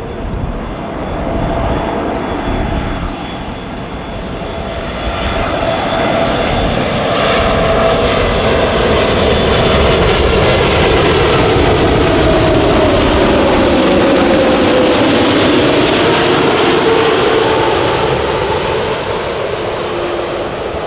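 Boeing 747-8F freighter's four GEnx-2B turbofan engines passing close by. The jet noise builds and is loudest through the middle, where the engine tones slide down in pitch as it goes past, then eases off near the end.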